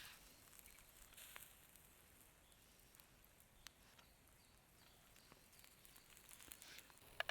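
Near silence: quiet outdoor ambience with a few soft rustles and faint small ticks, and one sharp click just before the end.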